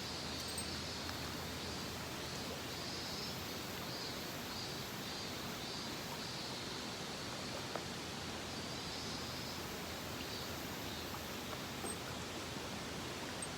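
A mountain stream rushing steadily, with faint high chirps repeating over it.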